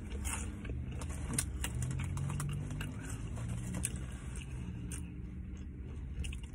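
Chewing and crunching potato chips, a scatter of small crackles and mouth clicks, over a low steady hum in a car cabin.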